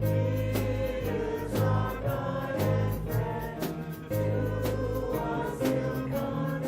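Voices singing a gospel worship song over band accompaniment, with held bass notes and a steady beat.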